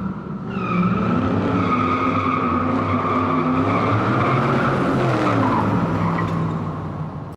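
A car engine running with its note rising and falling under a long tire squeal. It fades near the end, then cuts off.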